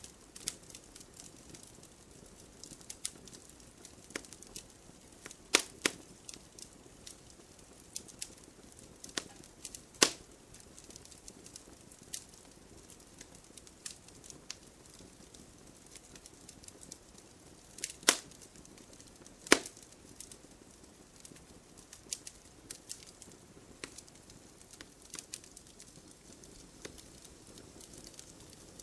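Wood campfire crackling: frequent small clicks over a faint low rush of flame, with a handful of louder sharp pops scattered through, two of them close together about two-thirds of the way in.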